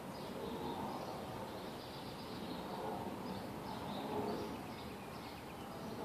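Outdoor ambience: small birds chirping in short, high calls, repeated irregularly over a steady background noise.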